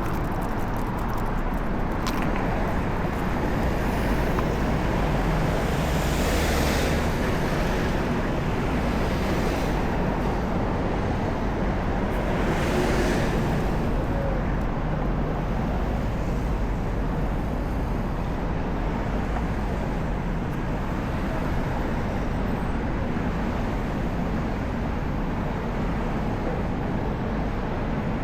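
Steady city street traffic noise, with two swells about six and thirteen seconds in.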